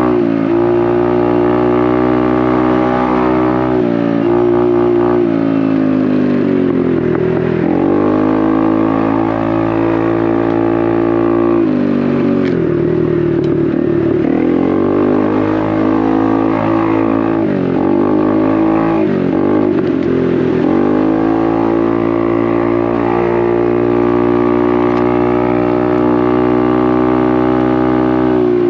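Honda Navi's single-cylinder engine through a Vance & Hines exhaust, running under way with the bike being ridden. The engine note holds steady, then several times in the middle drops and climbs back as the throttle is rolled off and opened again.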